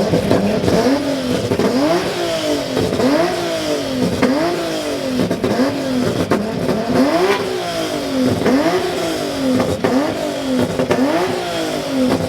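A car engine being revved again and again, its pitch climbing and dropping over and over in quick succession, a little more than once a second.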